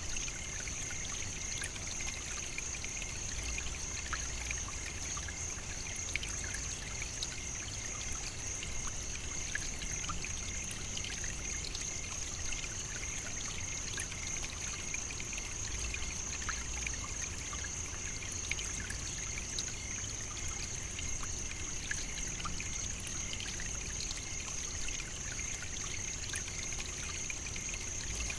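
African savannah ambience: a steady high-pitched insect drone with a fainter, lower trill beneath it, over an even trickling hiss of running water.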